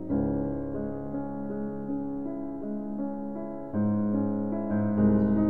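Slow piano music: held chords, with a new chord struck about a second apart at the start, then near four seconds and five seconds in.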